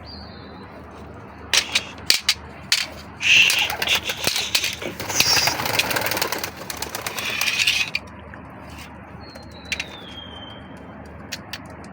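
Domestic pigeons in a loft: a few sharp knocks, then several seconds of loud fluttering and wing-flapping in the middle, with short falling high-pitched calls before and after.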